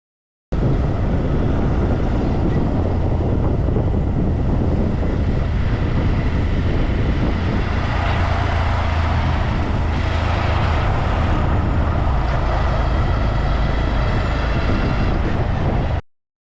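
Steady rushing roar of a large waterfall, with a deep rumble underneath. It starts suddenly about half a second in and cuts off abruptly near the end.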